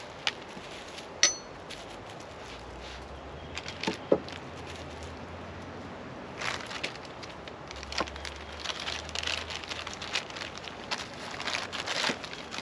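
Handling noises: a few sharp clicks and a clink, then a run of crackling rustles from about halfway through, as of packaging being handled.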